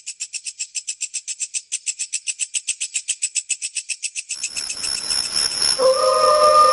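Horror sound-effect track: a fast, high pulsing chirr of about a dozen pulses a second grows louder. About four seconds in it gives way to steady high ringing tones over a hiss, and a held, slightly wavering eerie tone comes in near the end.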